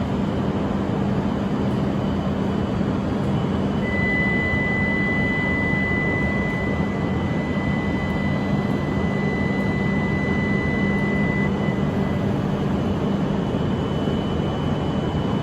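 A Shinkansen bullet train pulling out of the station, making a steady rumble and hiss. A high steady tone holds for several seconds in the middle.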